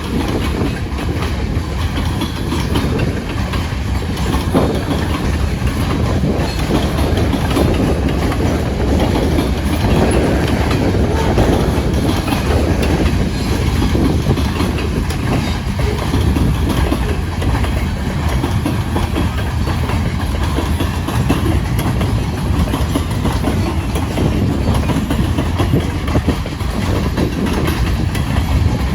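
Loaded grain train's freight cars rolling past, steel wheels clicking over the rail joints in a continuous clickety-clack.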